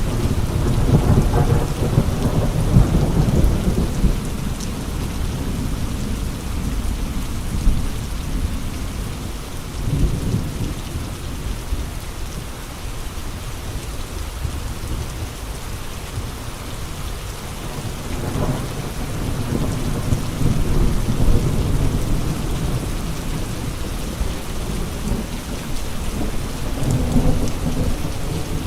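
Steady rain with gusting wind. Low rumbles swell and fade several times: near the start, about ten seconds in, and again in the last third.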